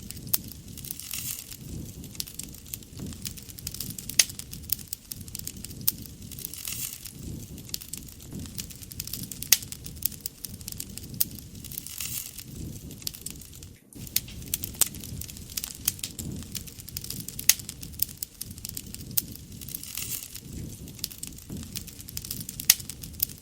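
Wood fire crackling, with irregular sharp pops of varying loudness over a low steady rushing of the burning fire. The sound breaks off for an instant about halfway through.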